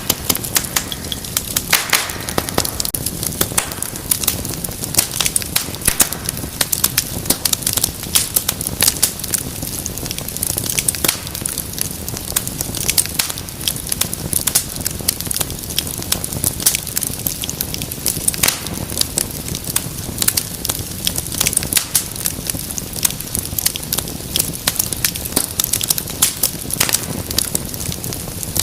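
Wood fire burning in a fireplace: a steady low rumble of flames with frequent sharp crackles and pops, a few louder pops near the start.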